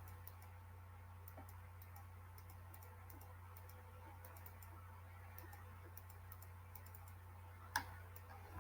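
Near silence: a steady low room hum with faint scattered ticks, and one sharper click just under eight seconds in.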